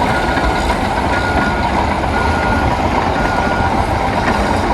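A truck's reversing alarm beeping about once a second over its running engine, the beeps fading toward the end.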